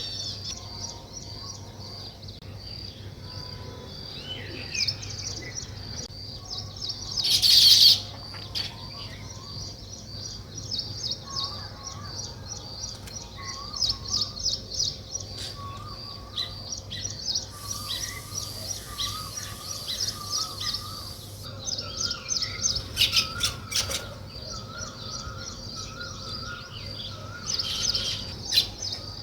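Weaver birds chirping in a dense chatter of short, high, rapidly repeated chirps, with a loud burst of chattering about eight seconds in. A lower, repeated wavering note from another bird joins in the second half.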